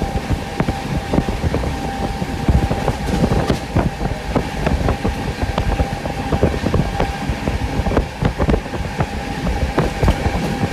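Sampoorna Kranti Express running at speed, heard from inside a coach: a dense rumble of wheels on rail, broken by many quick clacks and knocks from the track, over a steady high tone.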